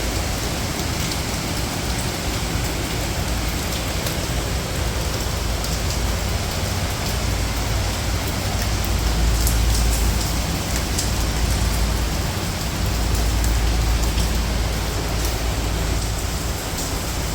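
Steady rain falling, an even hiss with scattered sharp drop ticks, over a deep low rumble that swells twice.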